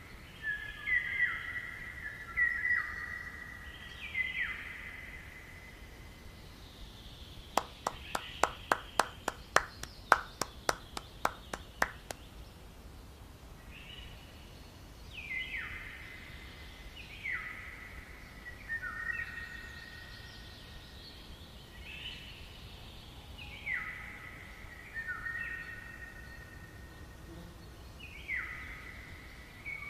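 Birdsong: short phrases of stepped notes falling in pitch, repeated throughout. A quick run of about twenty sharp clicks lasts a few seconds about a quarter of the way in.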